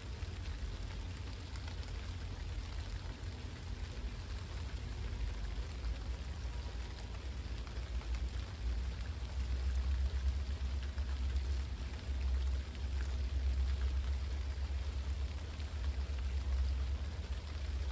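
Steady rain falling, an even hiss, under a deep low rumble that grows louder about halfway through.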